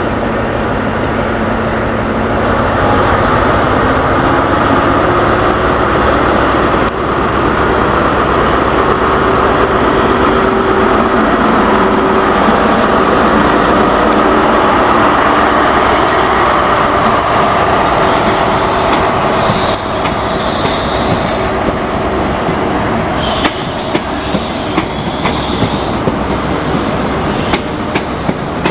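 A passenger train running along the station tracks, a loud steady rumble with a humming tone. Wheel squeal and a high hiss come in about two-thirds of the way through, and near the end the wheels click over rail joints in a regular beat.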